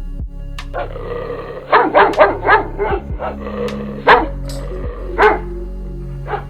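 Dog barking over steady background music: a quick run of about five barks, then two single barks a little apart.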